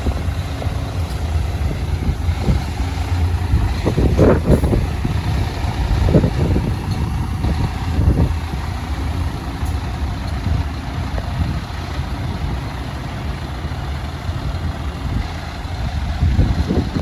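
Scania R480 truck's diesel engine idling with a steady low rumble, broken by several brief louder thumps.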